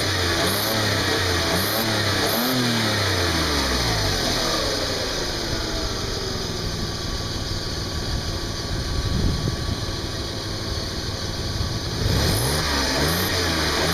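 2003 VW Passat's 2.8L V6 engine blipped up and down several times, settling to idle for most of the middle and revving again near the end, over a steady hiss. This is the noise that appeared after the flex pipes were replaced, which the owner suspects is a vacuum leak.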